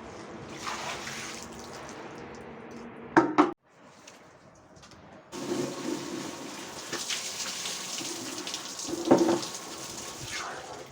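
Water running and splashing during cleaning, with two sharp knocks about three seconds in and a brief quiet gap after them.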